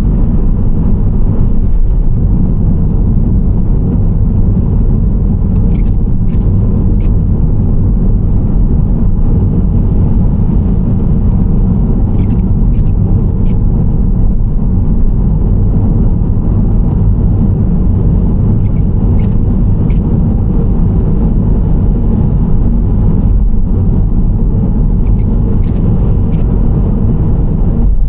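Nissan Serena C25 minivan cruising, with a steady low rumble of road, tyre and engine noise at an even level. Faint short clicks come in small groups of about three, four times.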